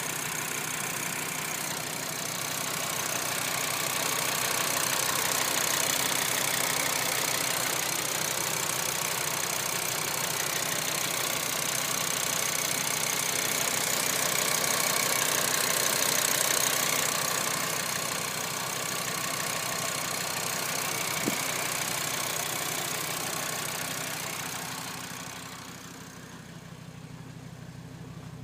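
Audi TT-RS 2.5 TFSI turbocharged inline-five engine running at a steady idle with the bonnet open: a low even hum under a busy, hissy mechanical top end. Near the end it becomes quieter and duller.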